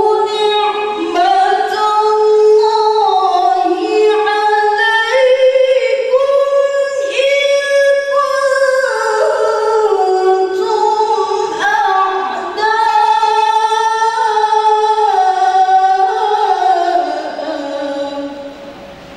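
A woman reciting the Quran in melodic tilawah style, one voice holding long, ornamented notes that waver and step between pitches, fading away near the end.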